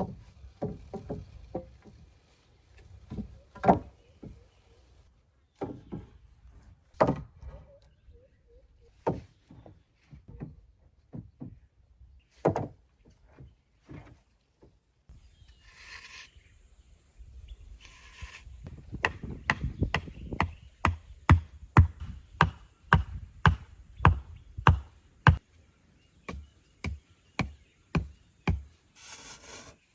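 Repeated chopping blows of a hand tool on wood: spaced irregularly at first, then a quick run of about two to three strikes a second in the second half.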